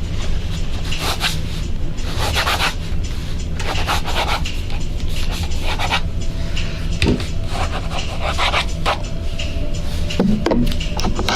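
Rubbing strokes over the ears of a 3Dio binaural microphone, ASMR ear-massage style. The swishes are irregular, about a second apart, and loud and close in the microphone.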